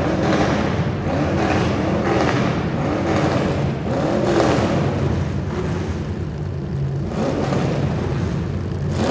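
Demolition derby car engines revving up and down again and again, the pitch rising and falling about once or twice a second over a loud, dense wash of noise.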